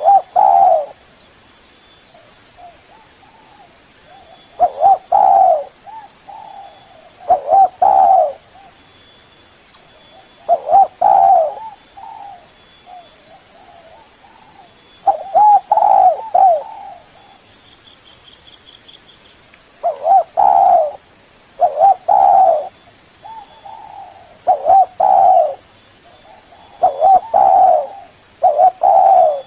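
Spotted dove (tekukur) cooing: repeated loud phrases of short, husky coos every few seconds, with softer notes between them.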